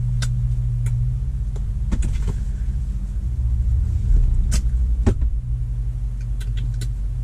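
Steady low rumble and hum of a car's idling engine, heard inside the cabin, with a few sharp clicks and knocks scattered through it.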